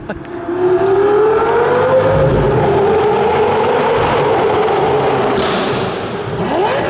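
Lamborghini Gallardo V10 accelerating hard past the listener in a tunnel. The engine note rises in pitch, holds and slowly falls as the car goes by, then climbs again near the end.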